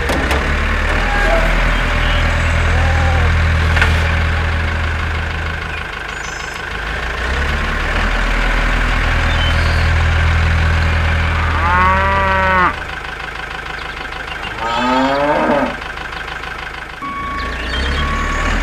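Tractor engine running steadily, with a cow mooing twice, about twelve and fifteen seconds in.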